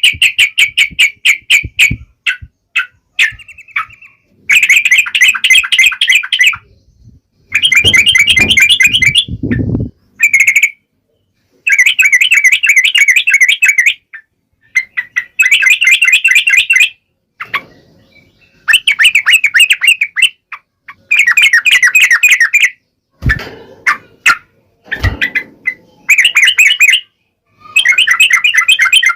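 Yellow-vented bulbul (trucuk) singing: repeated bursts of fast chattering notes, each a second or two long, with short pauses between. A brief low rumble comes in about eight seconds in.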